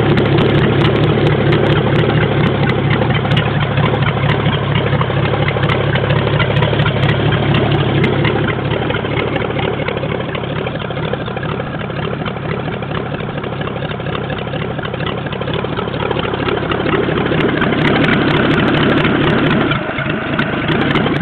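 Ford flathead V8 idling steadily; it eases a little in the middle and picks up again, with a brief dip near the end.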